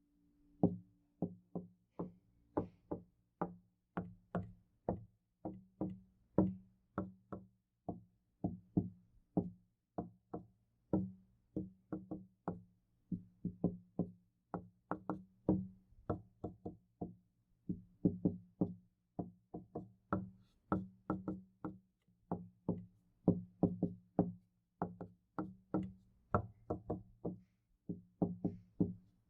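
Knocking on a door, a continuous run of knocks in uneven clusters at about two to three a second, each knock leaving a low ring.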